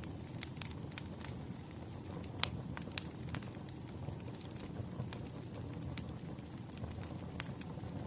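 Wood fire burning: a steady low rumble of flames with irregular sharp crackles and pops of burning firewood, one louder pop about two and a half seconds in.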